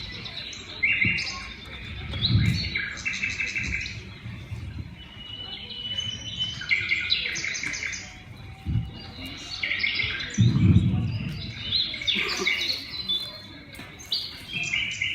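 Forest birdsong sound effect: many small birds chirping and trilling in overlapping phrases. Twice, about two and ten seconds in, a low bump sounds beneath it.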